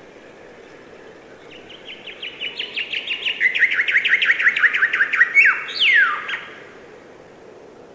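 A songbird sings one song of about five seconds: a quickening series of short, sharp downslurred notes ending in two longer falling notes. Faint steady background hiss underneath.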